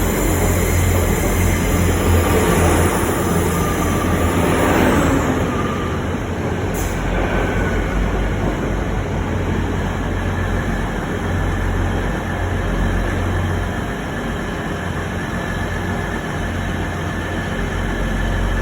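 Train running, a loud steady rumble and hiss, with a falling whine about four to five seconds in and a brief click near seven seconds.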